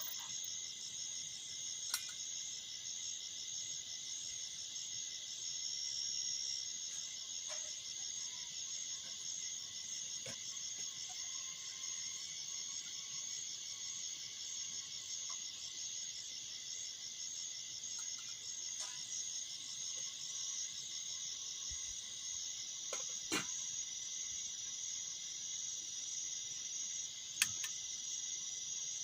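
Steady chorus of crickets chirring in high, fast-pulsing trills, broken by a few sharp clicks.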